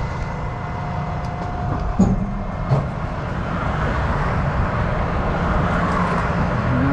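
Steady rumble of interstate traffic, swelling toward the end as a vehicle approaches, with two short knocks about two seconds in and soon after.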